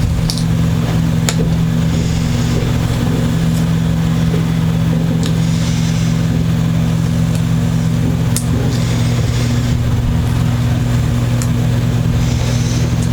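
A steady low mechanical hum, with a few light clicks and short scraping hisses over it.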